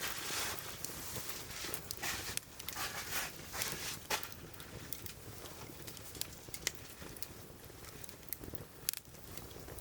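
Wood fire burning in a campfire grill, crackling with irregular sharp pops and snaps over a light hiss.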